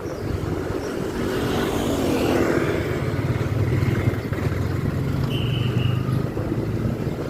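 Motorcycle engine running steadily while under way, a new bike being ridden in. A short high tone sounds briefly about five seconds in.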